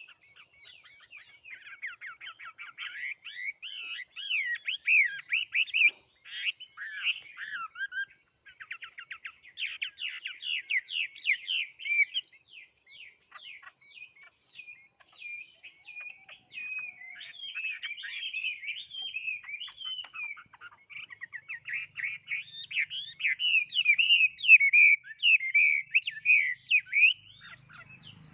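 A songbird singing a long, varied song of quick rising and falling notes and fast trills, almost without pause and loudest near the end.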